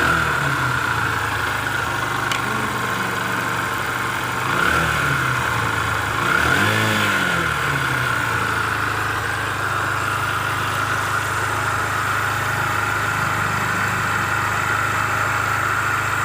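Bajaj Discover 100's single-cylinder four-stroke engine and exhaust idling, blipped twice by the throttle, about four and six seconds in, then settling back to a steady idle. The loose inner pipe in the silencer has just been welded back in; the mechanic says the exhaust noise problem is largely solved.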